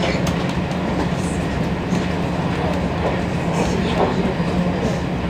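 Passenger train running along the track, a steady rumble heard from inside the carriage.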